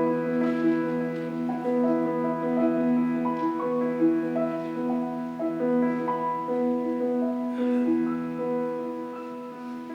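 Solo piano playing a flowing piece of single notes over a held low note. It grows softer near the end.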